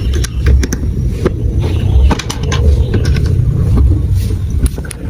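Marbles rolling through a plastic marble run track built from blocks: a steady rolling rumble with frequent sharp clicks as they strike and drop through the pieces.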